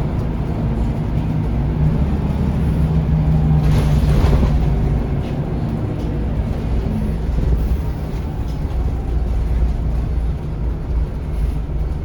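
Scania L94UB bus running on the road, heard from inside the cabin as a steady low engine and road drone. A brief hiss-like burst of noise comes about four seconds in.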